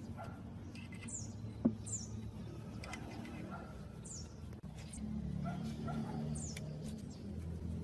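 A small bird chirping: short, high, falling chirps about four times, over a low steady hum that grows louder near the end. A single sharp click comes just under two seconds in.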